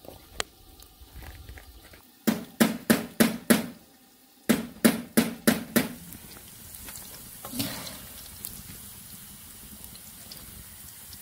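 Light crackling from a wood fire, then two runs of five sharp knocks, about three a second, the loudest sounds here. Then diced potatoes sizzling in hot oil in a wok, a steady hiss with a louder stir of the metal ladle a little past the middle.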